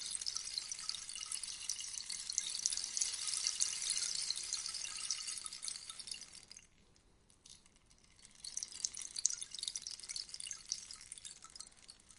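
Rainstick: a dense patter of tiny pellets trickling down the tube, dying away about six seconds in, then starting up again after a second or so of near silence.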